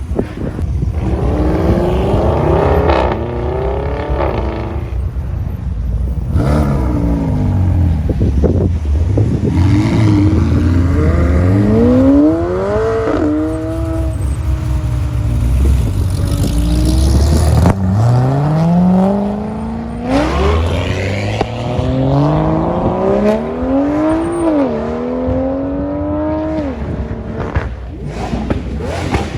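Loud exotic sports-car engines revving and accelerating away, the engine pitch climbing in long sweeps and dropping sharply again and again, as in hard pulls through the gears and throttle blips.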